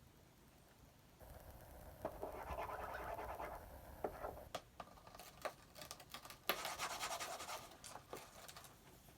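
Cockatiel scratching at a cardboard box: bouts of rasping scrabbling with a few sharp taps in between.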